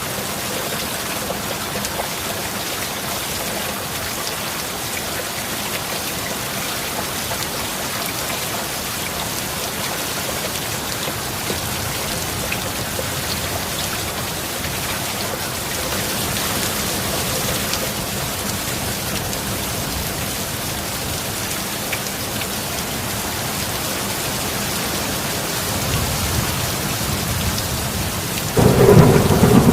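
Heavy rain falling steadily. Low thunder builds in the last few seconds and breaks into a loud thunderclap near the end.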